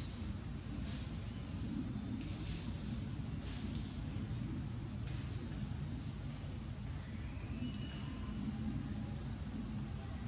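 Outdoor ambience: a steady low rumble under short, high chirping calls that come every second or so.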